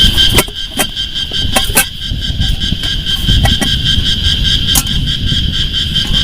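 Rain falling in a rainforest at night: a steady low wash of rain with scattered sharp taps of drops, likely on a tarp, under a continuous high, even-pitched insect chorus.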